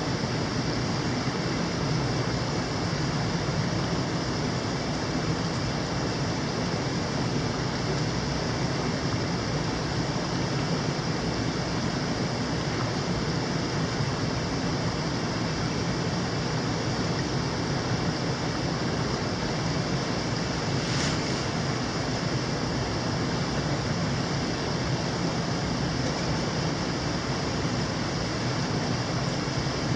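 Steady, unbroken rush of a mountain stream's flowing water.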